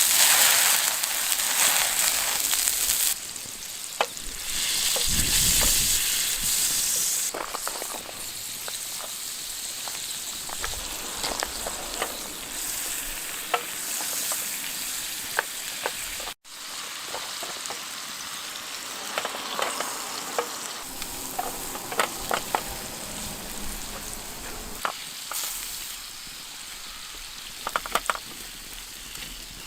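Food frying in a pan over a campfire, sizzling loudest for the first seven seconds and then more steadily, with repeated taps and scrapes of a utensil stirring it. There is a momentary break in the sound about halfway through.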